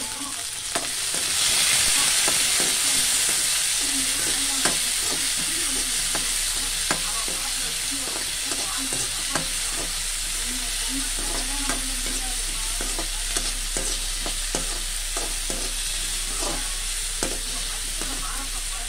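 Shallots, tomato and curry leaves sizzling in oil in a wok-shaped pan, stirred with a perforated metal ladle that scrapes and clicks irregularly against the pan. The sizzle gets louder about a second and a half in.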